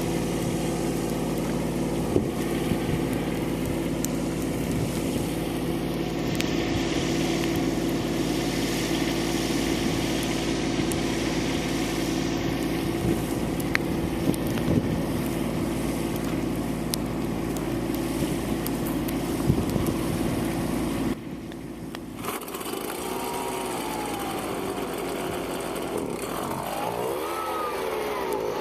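Compact Kubota tractor's small diesel engine running steadily under load. About 21 s in the sound drops abruptly quieter, and high chirping glides come in over a fainter engine hum.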